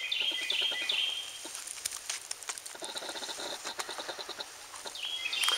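Birds calling: flat, high whistled notes stepping between a few pitches at the start and again near the end, and a quick run of ticking chips in the middle. Scattered clicks and rustle of the camera being handled run throughout.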